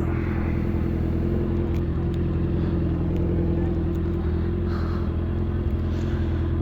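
Motor vehicle engine idling steadily, a constant low hum.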